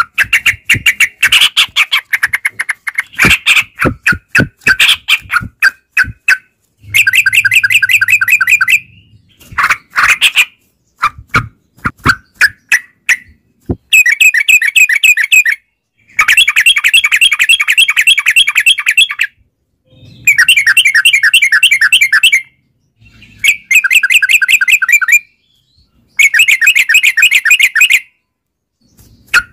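Yellow-vented bulbul (trucukan) song. It opens with scattered quick chirps, then comes in rapid rolling, chattering phrases that each run about two to three seconds, with short pauses between them.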